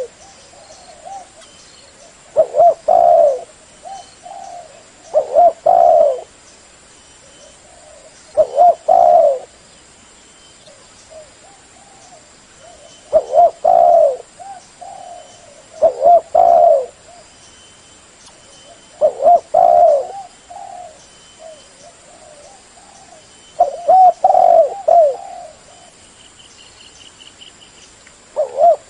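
Spotted dove cooing loudly, repeating its phrase about eight times, every few seconds, with softer single coos in between. It is the kind of call played as a lure to draw wild doves.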